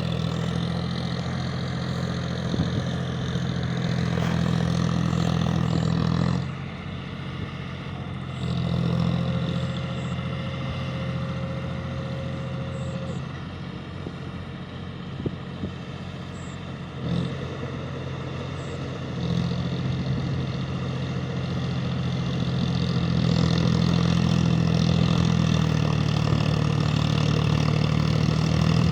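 John Deere 5050D tractor's three-cylinder diesel engine running under varying throttle, its note falling back twice and building up again toward the end. A few brief knocks come about two-thirds of the way through.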